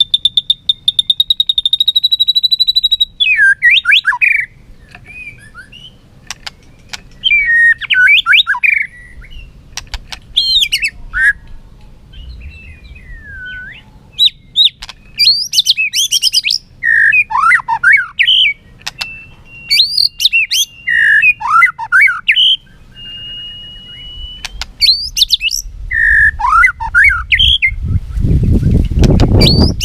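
White-rumped shama singing: a rapid buzzing trill for about three seconds, then a string of varied whistled phrases separated by short pauses, with two long, steady whistled notes in the second half. A low rumble builds near the end.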